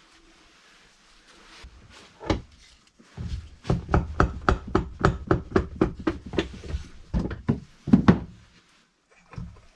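A hammer striking metal: one blow, then a quick run of about twenty blows at roughly four a second lasting some five seconds.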